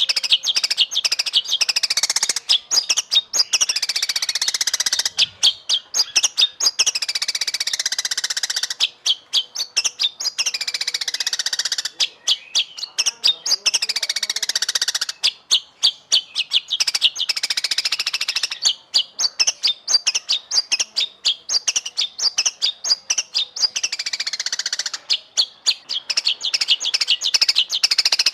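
White-rumped shama (murai batu) masteran song: a continuous stream of rapid, high chirps with falling trills that come round every few seconds.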